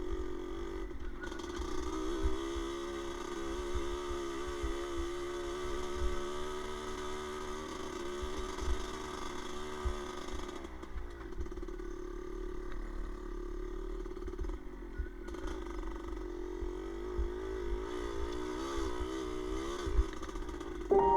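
A small motorcycle engine running at low, varying revs, its pitch wavering up and down, with frequent low thumps and rumble.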